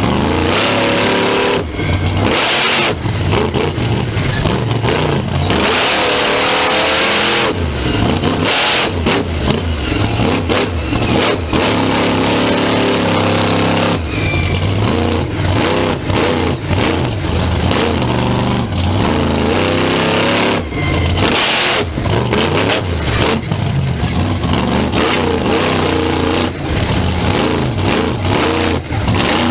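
Loud vehicle engines revving hard, again and again, their pitch climbing and dropping, with short loud blasts of noise in between.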